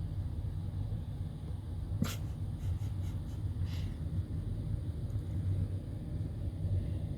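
Steady low outdoor rumble, with one sharp click about two seconds in and a few faint high chirps shortly after.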